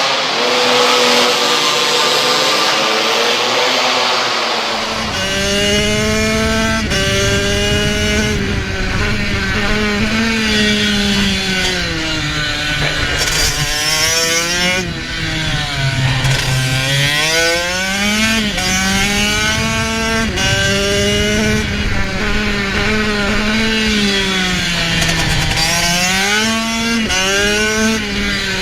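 Motorcycle engine running hard, its pitch climbing and dropping again and again as it accelerates and backs off. The first four or five seconds are a harsher, noisier sound without the deep engine tone.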